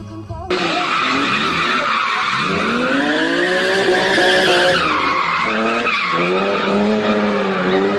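A car's engine revving up and down while its tyres squeal, starting abruptly about half a second in.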